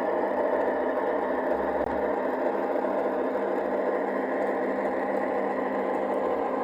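An LGB G-scale model locomotive running, its electric motor and gearbox giving a steady whirring hum.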